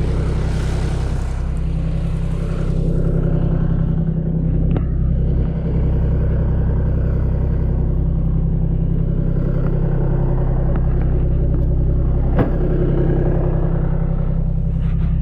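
A vehicle engine running steadily with a low, even drone. A hiss is heard over it in the first few seconds, and there is a sharp click about twelve seconds in.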